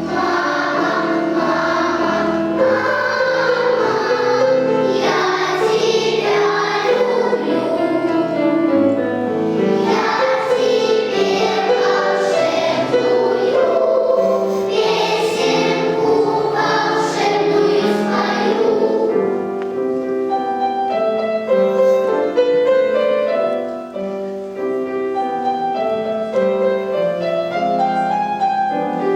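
Children's choir singing a song with piano accompaniment; about two-thirds of the way through the voices stop and the piano plays on alone.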